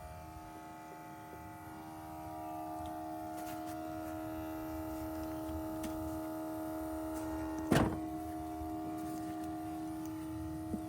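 Electric air pump of a smoke leak detector machine humming steadily while it feeds smoke into the engine for a vacuum leak test, growing a little louder about two seconds in. A single sharp knock cuts through it near the end.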